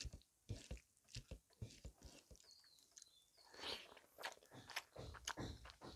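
Faint chewing and mouth clicks of a person eating rice with potato and pointed gourd curry by hand, with soft sounds of fingers working the rice on the plate.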